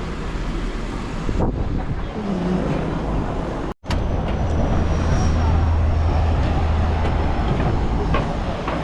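Seaplane propeller engines running: a steady, loud low drone with a faint high whine. There is a brief dropout to silence nearly four seconds in, and the drone is stronger after it.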